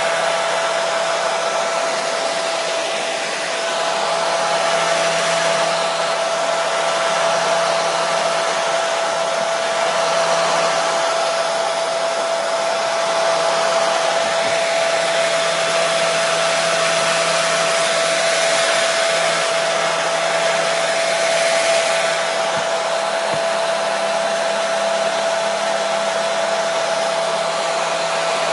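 Hair dryer running steadily: a constant blowing rush with a steady motor whine, played as continuous white noise for soothing a baby.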